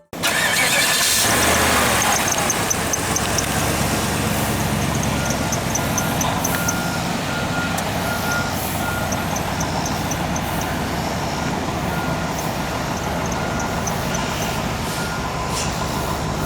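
Cadillac Allante's 4.6-litre Northstar DOHC V8 starting, flaring briefly and then settling into a steady idle. From about five seconds in, a short high chime repeats at an even pace over the engine.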